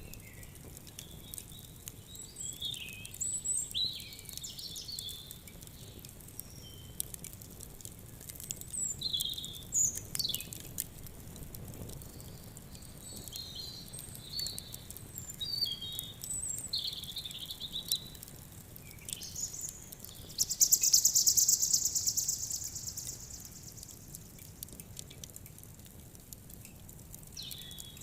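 Small birds chirping and calling in short high phrases over light, scattered crackling of a wood fire. About two-thirds of the way through, a loud, rapid, buzzing trill lasts a couple of seconds and is the loudest sound.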